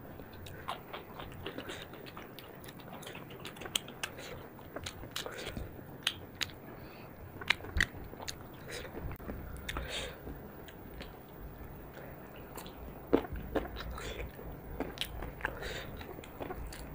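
Close-miked chewing and biting of a rice-and-chicken meal eaten by hand, with wet mouth smacks and many scattered sharp clicks.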